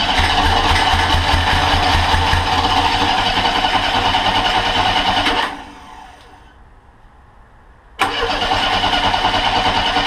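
Monster trike engine cranked over on the starter with an even pulsing beat, without catching; the cranking stops about five and a half seconds in and starts again about two seconds later. The engine is not firing because the ignition has lost spark.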